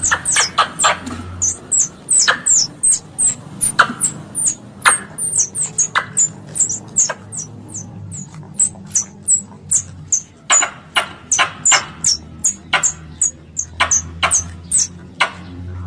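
Plantain squirrel (bajing kelapa) calls played as a lure: a rapid, unbroken series of short, sharp high chirps, each sliding down in pitch, about three a second.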